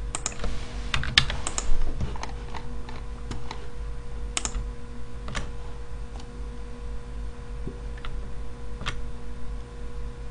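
Computer keyboard keystrokes and clicks, a quick cluster in the first two seconds, then single clicks spread out about once a second, over a steady low hum.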